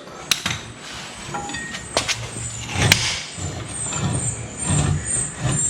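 A few sharp metallic knocks as the lower unit of a 1974 Johnson 50 hp outboard comes free and is handled, over a low rumble that comes and goes.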